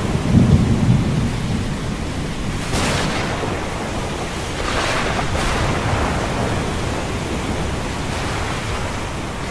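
A roll of thunder rumbles low, starting about half a second in and fading over the next second or so, over steady ocean surf. Waves wash in with a rising hiss about three seconds and again about five seconds in.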